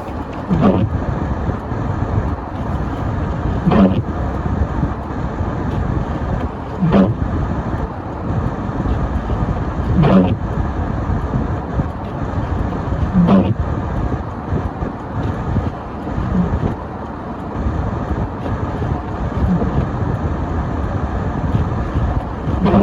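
Car driving on a snowy road: steady engine and road noise, heard from inside the car, with a short knock repeating evenly about every three seconds.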